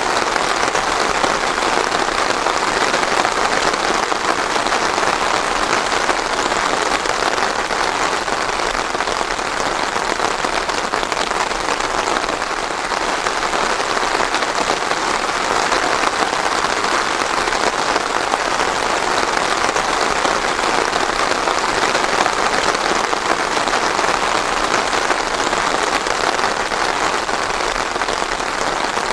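Steady rain falling on a surface, an even dense patter without thunder.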